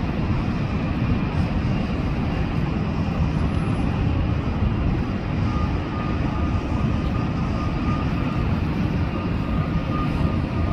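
Jet noise from the Lufthansa Airbus A380's four engines at full takeoff power just after its takeoff roll, a steady loud rumble. A faint steady whine joins about halfway through.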